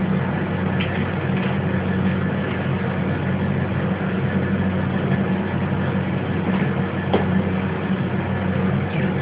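A steady low mechanical hum, like a motor running, with a couple of faint ticks.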